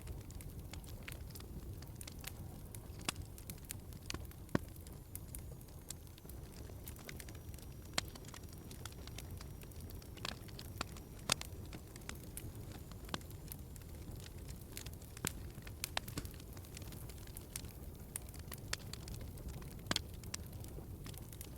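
Wood fire crackling in a fireplace: irregular sharp pops and snaps, several a second, over a steady low background noise.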